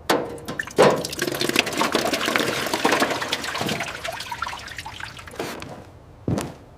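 Liquid splashing and trickling with many small crackles. It starts abruptly, stays loud for about four seconds, then fades, with two sharp knocks near the end.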